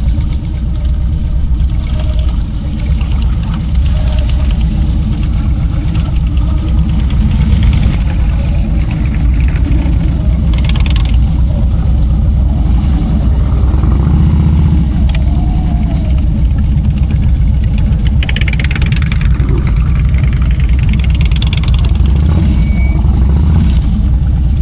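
Harley-Davidson motorcycle engine running steadily at road speed, with wind and road noise.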